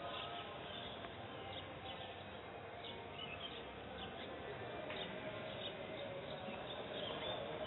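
Faint steady background hiss with a few faint, short bird chirps.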